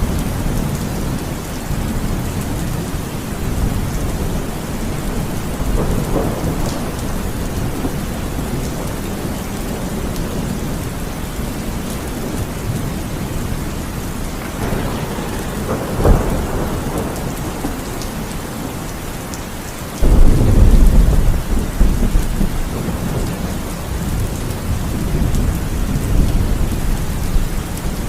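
Heavy rain falling steadily through a thunderstorm, with low rolling thunder. A sharp crack comes about halfway through, and a loud thunderclap breaks about two-thirds of the way in and rumbles on for several seconds.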